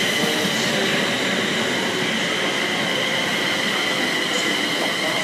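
Train moving through the station: steady rumbling running noise with a continuous high-pitched squeal from the wheels or brakes.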